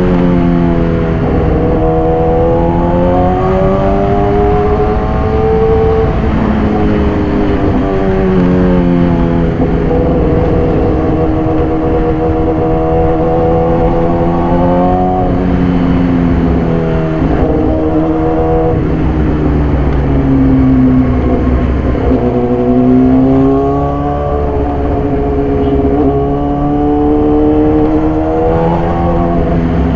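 2014 Yamaha YZF-R6 inline-four engine through an SC-Project exhaust, running under way. Its pitch climbs through the revs and falls away again several times as the bike accelerates, shifts and slows.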